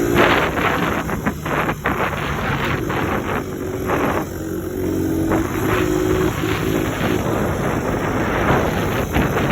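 Suzuki DR100 dirt bike's small single-cylinder four-stroke engine running under way, its note stepping in pitch a few times, with wind buffeting the microphone.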